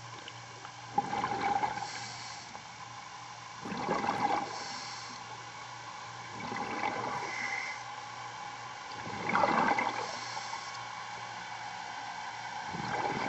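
Scuba diver breathing through a demand regulator underwater: a burst of exhaled bubbles about every three seconds, each followed by the short hiss of an inhalation.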